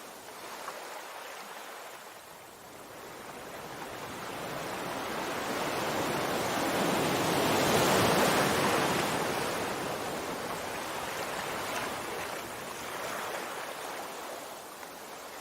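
Sea waves washing on a shore: the hiss of surf builds slowly to a peak about halfway through as a wave comes in, then eases back down as it recedes.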